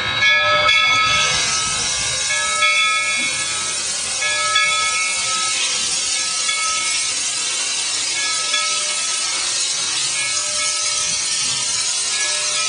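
Steam hissing steadily in the cab of steam locomotive No. 97. The hiss starts about a second in and holds, with a few faint steady tones under it.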